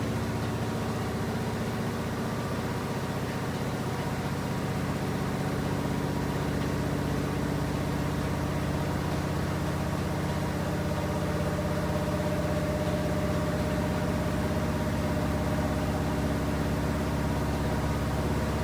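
Washing machine running with a steady motor hum made of several steady tones; about halfway through, a higher tone joins and the sound grows slightly louder.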